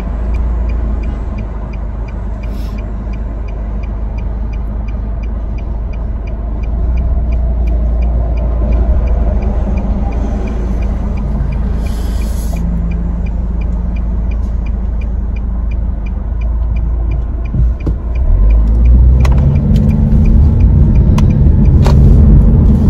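Car engine and cabin rumble heard from inside the car, with a faint regular ticking through most of it. About eighteen seconds in, the engine note rises and grows louder as the car pulls away.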